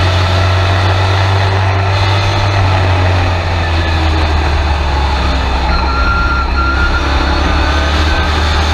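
Race truck engine heard from inside the cab, running loud and steady at a fairly constant pitch.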